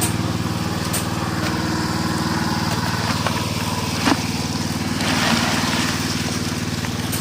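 A small engine running steadily at an even speed, with a few sharp knocks and a brief hiss about five seconds in.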